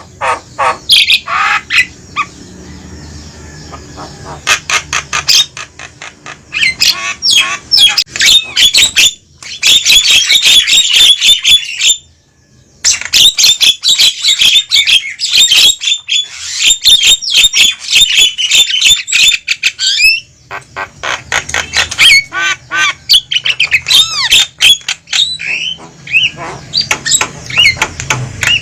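Javan mynas calling noisily: dense harsh chattering and squawks mixed with whistled notes. The calling breaks off briefly twice.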